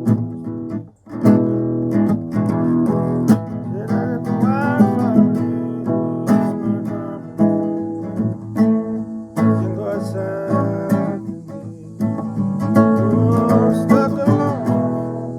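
Acoustic guitar playing a blues, strummed and picked chords with notes that bend or slide in pitch.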